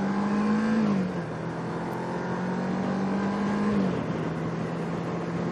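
Kawasaki Ninja 650R's parallel-twin engine running while riding, with wind rushing over the microphone. The engine note drops slightly about a second in and again near four seconds.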